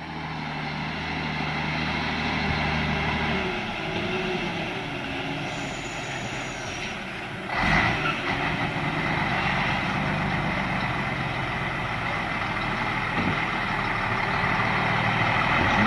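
Truck engine running steadily at low speed, with one sharp knock about seven and a half seconds in.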